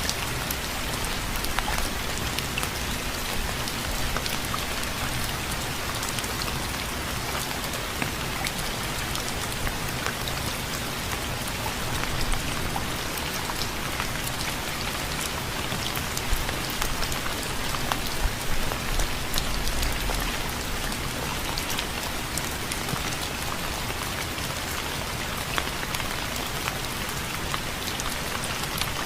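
Steady rain falling on a surface, a dense hiss speckled with many small drop ticks.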